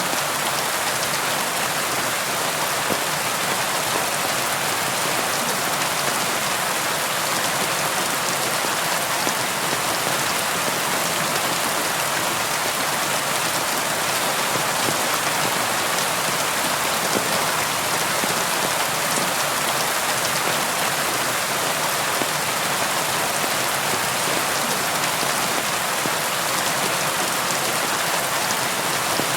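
Steady rain falling on a surface, a dense even patter of drops with no thunder.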